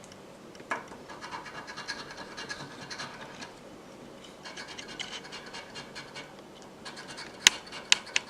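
A scratch-off lottery ticket being scratched in quick repeated strokes, in two spells, followed by a few sharp taps near the end.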